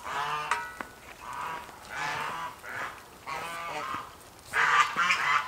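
Geese honking repeatedly in a run of calls, loudest near the end.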